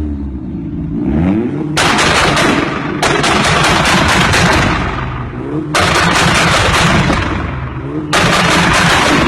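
A VW Golf's engine revving up again and again, each rev breaking into a long stretch of rapid, machine-gun-like exhaust crackling and popping, four times.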